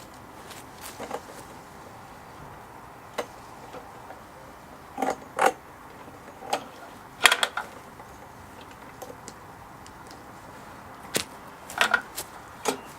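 Irregular sharp clicks and clatters, about a dozen, some in quick pairs, from hands working on a petrol lawn mower while checking its spark plug for spark.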